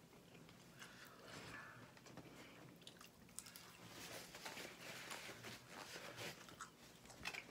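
Faint chewing and biting on chicken wings, with many small scattered mouth clicks.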